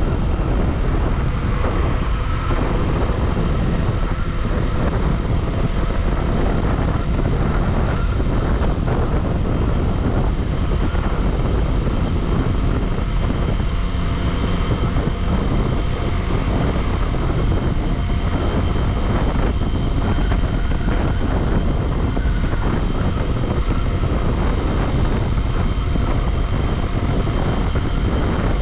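Bajaj Pulsar motorcycle running at a steady cruising speed, its engine drone mixed with wind rushing over the microphone.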